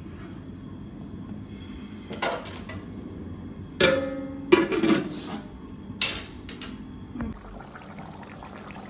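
Tableware knocking and clinking during a meal: about five separate knocks, one near the middle ringing briefly like a metal plate or bowl.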